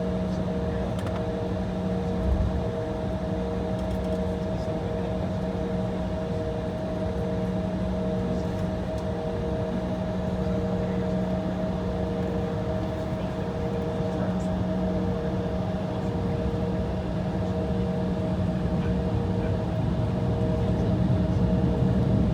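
Steady cabin hum of an Embraer E175 airliner holding on the taxiway with its engines idling: a low rumble carrying a few steady tones, one of them pulsing on and off. The low rumble grows a little near the end.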